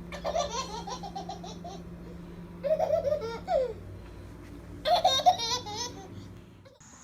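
A young child laughing in three bouts of quick, high-pitched laughter, over a steady low hum.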